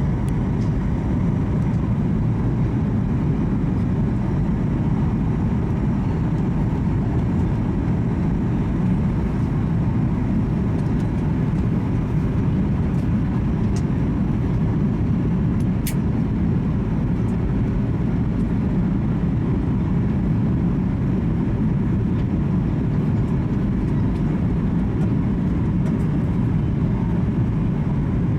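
Steady cabin noise inside a Boeing 737 MAX 8 in flight: an even, deep rumble of its CFM LEAP-1B engines and the airflow over the fuselage.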